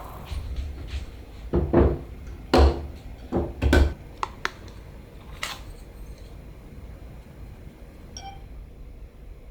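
Dishes and utensils being handled in a kitchen: a run of sharp knocks and clatters in the first four seconds, another about five and a half seconds in, then a short ringing clink near the end.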